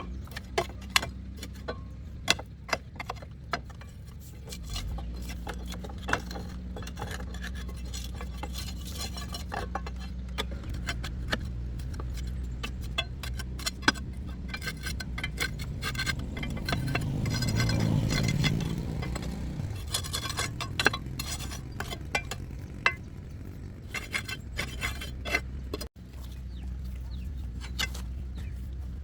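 Repeated metallic clinks and taps of tools on excavator parts during repair work, over a steady low hum. A low rumble swells and fades about 17 seconds in.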